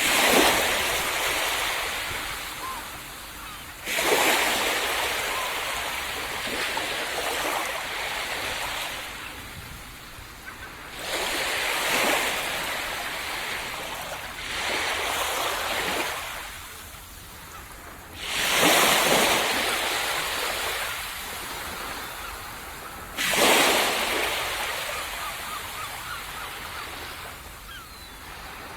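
Ocean waves breaking on a tropical sandy beach, about six in a row a few seconds apart; each one crashes suddenly, then fades as the water washes up the shore.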